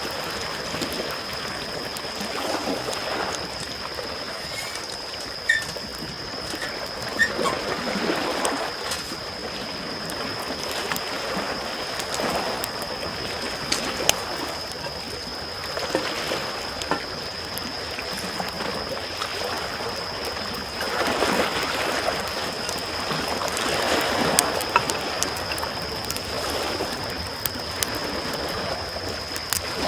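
Small waves lapping on a shore, a wash of water that swells and falls back every few seconds, with a wood campfire crackling and giving sharp pops.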